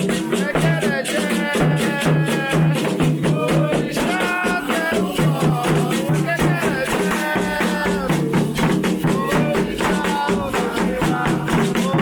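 Candomblé ritual song: voices singing over a steady beat of drums and rattles.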